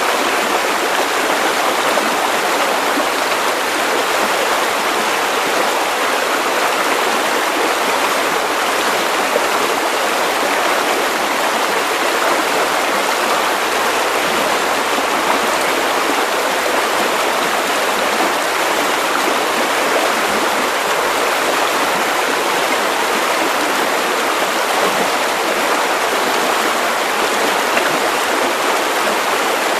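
Steady white noise for sleep: a loud, even hiss with little bass that does not change.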